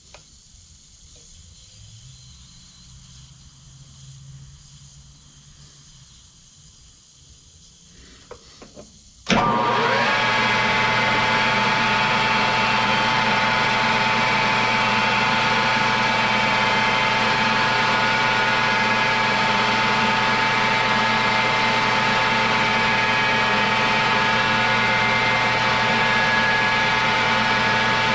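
A metal lathe is switched on about nine seconds in and then runs steadily under power, its motor and gearing giving a loud, even whine with several steady tones. Before it starts there is only a low hum and a few small clicks.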